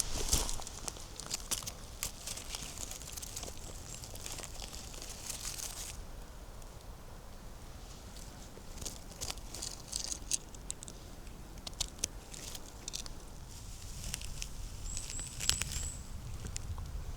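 Footsteps crunching and crackling over dry leaf litter and twigs on a forest floor, dense for the first six seconds and sparser after, with a short high chirp near the end.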